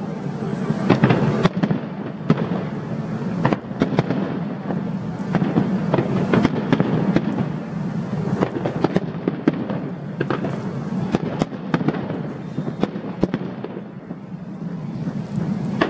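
Aerial fireworks display going off continuously: a dense run of bangs and crackling shell bursts over a steady rumble, with a slightly thinner patch near the end.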